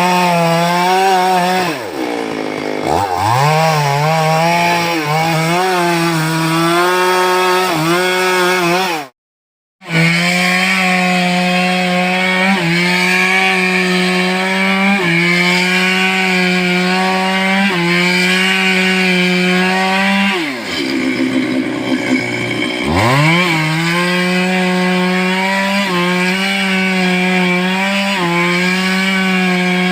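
Stihl chainsaw running at high revs, cutting wood. Its engine note sags and climbs back up twice, about two seconds in and again about twenty-one seconds in. The sound cuts out completely for under a second about nine seconds in.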